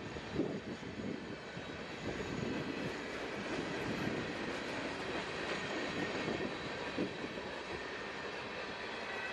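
Norfolk Southern freight train's last boxcars and tank cars rolling past, with a steady rumble and rattle of wheels on the rails and a couple of sharper knocks. This is the tail end of the train going by.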